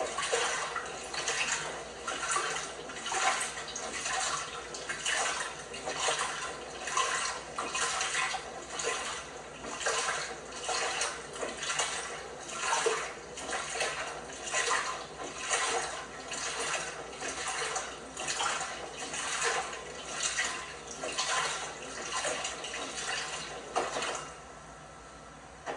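LG washing machine washing a load: water and laundry sloshing in the turning drum with a steady rhythm of swishes, which stop suddenly near the end.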